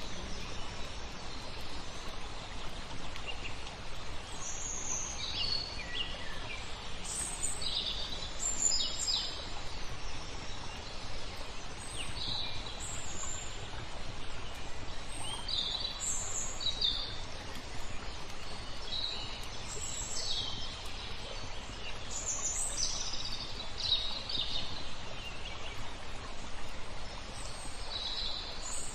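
Small songbirds chirping and trilling in short high calls, a few every couple of seconds, over a steady background rush of flowing water.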